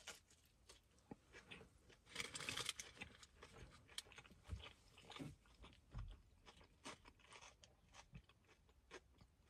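A person chewing a mouthful of a tortilla wrap that has crunchy kettle chips inside: faint, irregular crunching, busiest about two seconds in.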